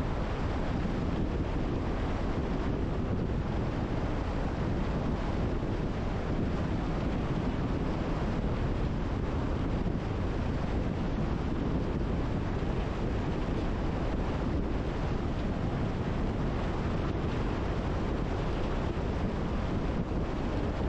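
Steady rushing wind and road noise with a low rumble, from a camera riding on a moving car.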